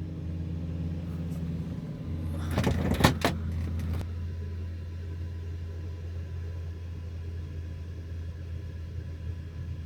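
A vehicle engine idling with a steady low hum. Over it, a short clatter with a sharp knock comes about three seconds in.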